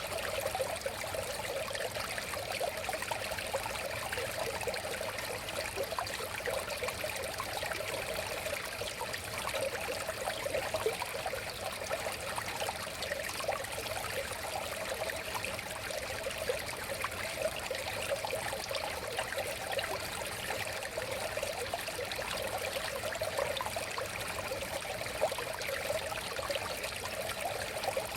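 A river flowing steadily, with a continuous rushing and fine bubbling and trickling over the water.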